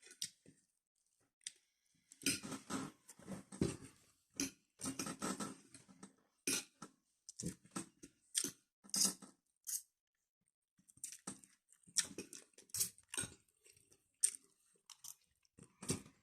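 Close-up chewing and lip-smacking of oily chicken adobo and rice, a run of short, irregular wet mouth sounds with brief pauses in between.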